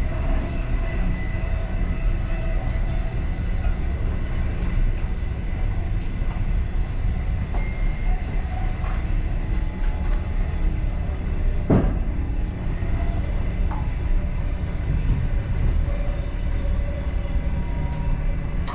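Passenger train running at speed, heard from inside its last car: a steady low rolling rumble with faint whining tones, and one sharp knock about twelve seconds in.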